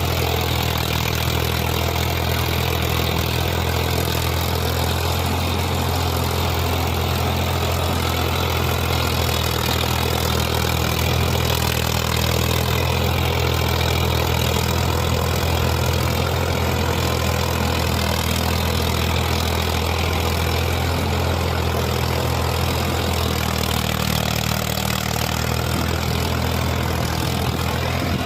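Farmtrac 60 tractor's diesel engine running steadily at an even pitch.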